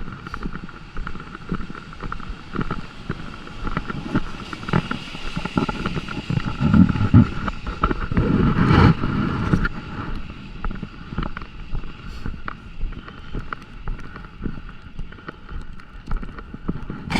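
Rainy city street ambience heard while walking: irregular ticks and taps over a faint steady hum, with a low rumble swelling for a few seconds in the middle.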